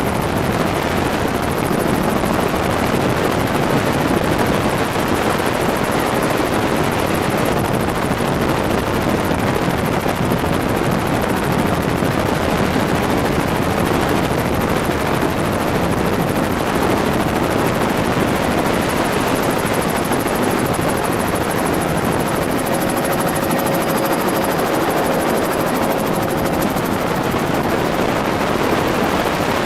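Helicopter in flight: rotor and engine noise, loud and steady throughout, with a faint thin tone rising above it for a few seconds about three-quarters of the way through.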